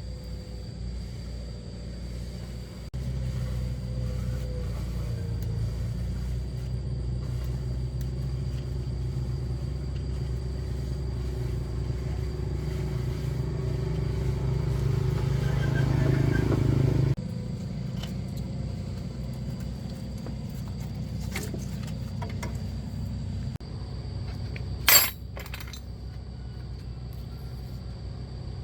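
Pickup truck engine running, growing gradually louder until its sound drops off suddenly about 17 seconds in, then carrying on more quietly. A single sharp knock near the end.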